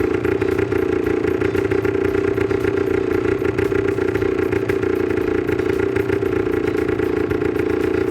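Motorcycle engine of a homemade 2x2 (two-wheel-drive) motorbike running at a steady speed with a fast, even firing pulse.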